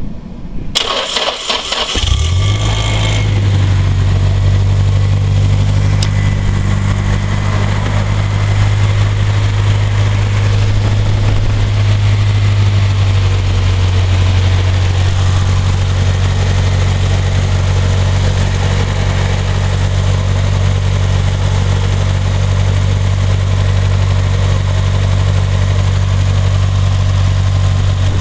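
Nissan Silvia S14a engine cranked by the starter for about two seconds, catching and settling into a steady idle that drops to a lower speed about halfway through. The owner films it for a knocking noise in the engine.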